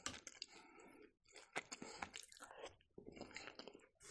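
Close-up chewing: a person eating, with faint, irregular soft crunches and wet mouth clicks.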